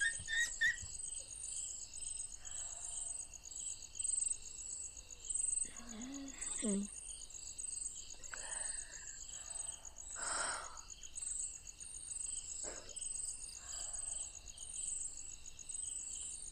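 Night insect ambience: crickets chirping steadily in a fast, even pulse, with a few faint, brief sounds about six and ten seconds in.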